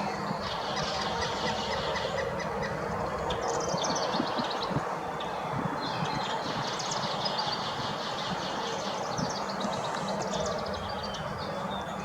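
Several small songbirds chirping and trilling almost continuously over a steady outdoor background noise.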